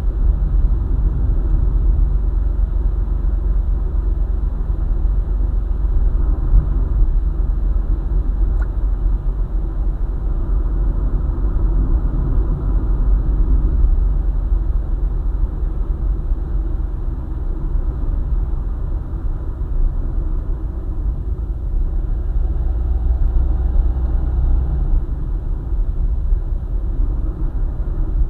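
Car driving at speed on a highway: a steady, low rumble of engine and tyres on the road.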